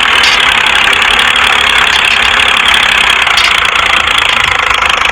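A small motor or engine running steadily with a dense, even buzzing rattle, which cuts off abruptly just after the end.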